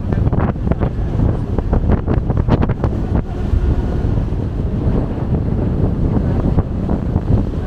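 Wind buffeting the microphone on a moving ferry, in uneven gusts over a low, steady rumble.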